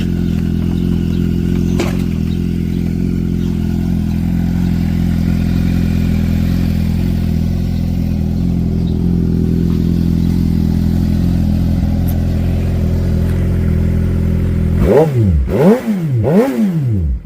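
2009 Suzuki GSX-R 750's inline-four engine idling steadily through an M4 Street Slayer full exhaust. Near the end come three quick throttle blips, each rev rising and falling back.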